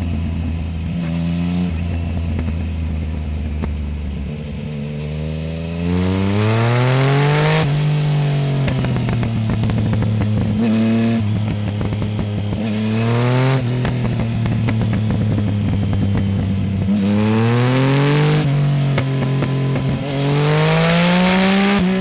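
Yamaha Tracer 900 GT's 847 cc inline-three engine, on a full Roads Italia exhaust with the dB-killer removed, running at low revs for about five seconds and then accelerating hard through the gears. Its pitch climbs and falls back at each of several upshifts.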